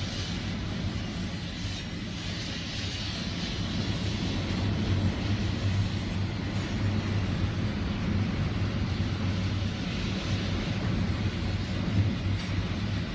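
Strong wind blowing across the microphone, a rumbling, gusting rush, over a steady low hum.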